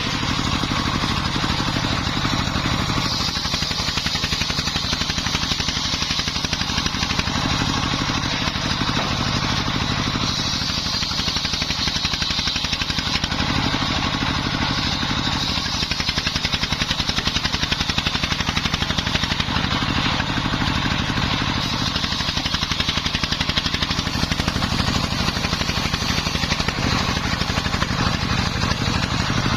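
Single-cylinder Dongfeng 24 hp diesel running steadily as it drives a home-built circular saw, with a high saw whine over the engine that grows and fades in stretches of a few seconds as wood is fed through.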